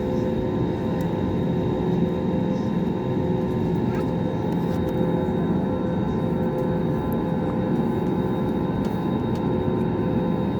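Steady cabin noise of an Airbus A320neo's Pratt & Whitney geared turbofan engines under power, heard from inside the cabin: a dense, even rumble with a few steady tones running through it.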